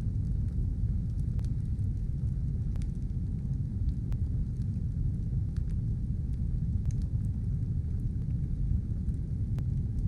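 Wood fire burning: a steady low rumble with sharp crackles popping every second or two.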